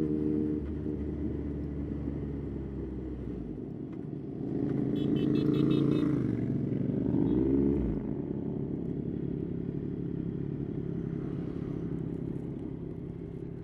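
Yamaha Tracer 9's three-cylinder engine running on the move, louder for a few seconds around the middle as it revs up and eases off, then settling back to a steady run.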